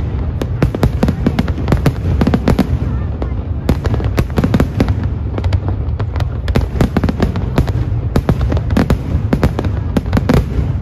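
Aerial fireworks display: shells bursting in quick succession, many sharp bangs a second over a steady low rumble, with a brief lull about three seconds in.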